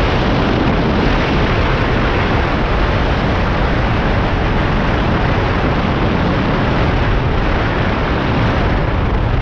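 Loud, steady wind noise buffeting the microphone, a rough rumbling rush with no clear engine tone.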